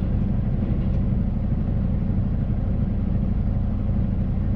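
Steady low rumble of a semi truck's diesel engine and road noise, heard from inside the cab while driving at a constant pace.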